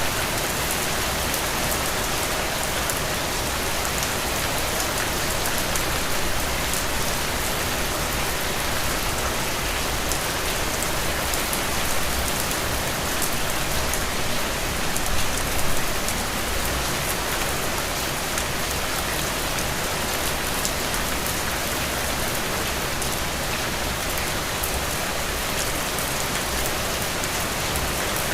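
Steady rain falling, a dense even hiss with many fine drop ticks on a surface. It swells slightly about halfway through.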